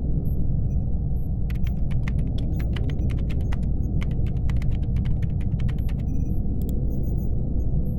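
Laptop keyboard typing in two runs of quick key clicks, with a few more clicks near the end, over a steady low ambient hum. Faint short high electronic blips sound now and then.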